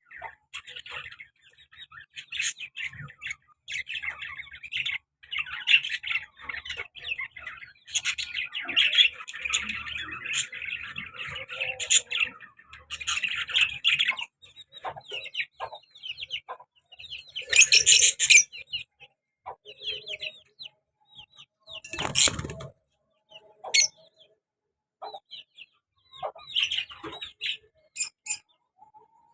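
A pair of lovebirds, one of them a black-masked lovebird, chirping and chattering in quick runs of short high calls, busiest in the first half and sparser later. Two louder, harsh bursts come past the middle.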